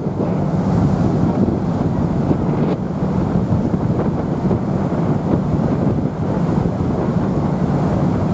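Wind blowing hard across the microphone, with a steady low rumble underneath.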